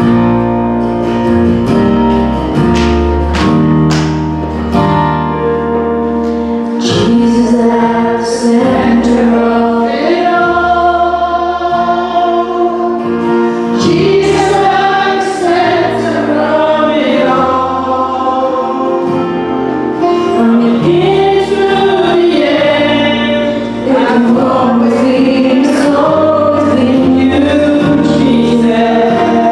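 Gospel choir singing with instrumental accompaniment: held bass notes under the voices and a steady percussion beat.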